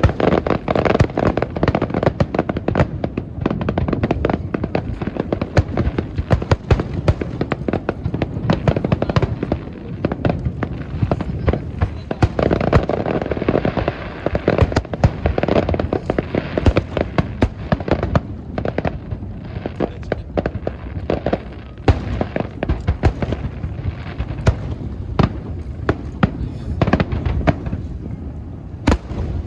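Fireworks display: a dense, continuous barrage of aerial shells bursting, many bangs and crackles overlapping one another with no break.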